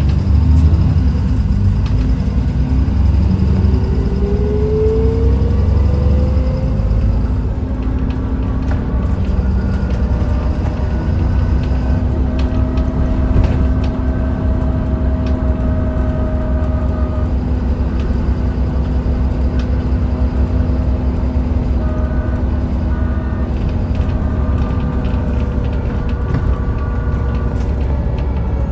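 Dennis Trident 2 Enviro400 double-decker bus under way, with a heavy, steady low engine rumble and a drivetrain whine. A whine rises in pitch about four seconds in as the bus picks up speed, then holds as steady tones, with light rattles throughout.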